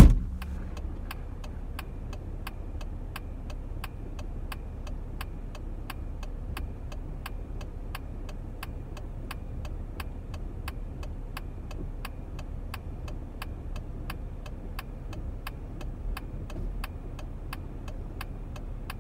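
A sharp click, then a steady, even ticking about two and a half times a second over a low hum like an idling vehicle.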